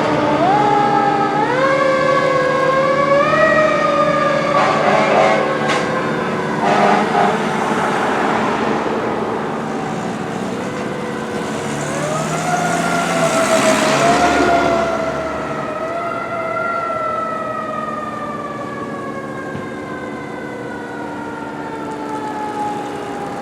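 Fire engine siren on a 2006 KME fire truck responding to a call: it rises in pitch twice, each time followed by a long, slow fall in pitch. The truck's engine and road noise run underneath.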